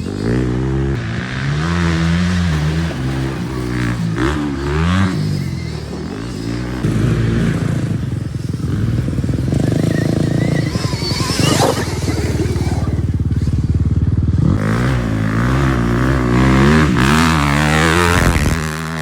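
A dirt bike being ridden hard, its motor pitch rising and falling over and over as the throttle is worked. About halfway through there is a steadier, fuller stretch and a brief rising whine.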